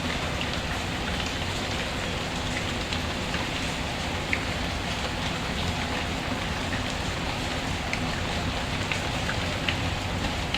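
Steady rain falling, mixed with a fireplace crackling faintly: scattered small sharp ticks over the even hiss of the rain.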